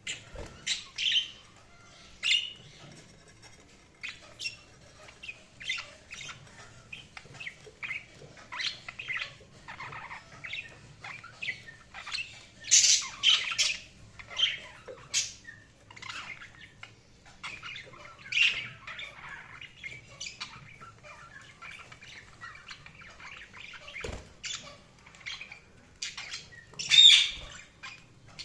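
Budgerigars chattering and chirping: a run of short warbling calls and squawks, louder in bursts about halfway through and again near the end.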